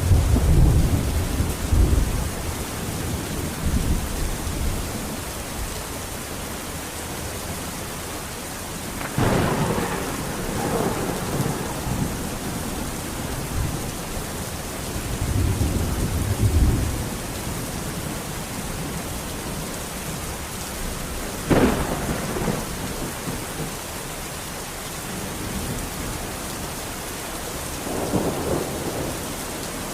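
Steady rain falling, with repeated thunder. There are low rumbles at the start and again midway, a sharp crack about nine seconds in and another about twenty-one seconds in, and more rumbling near the end.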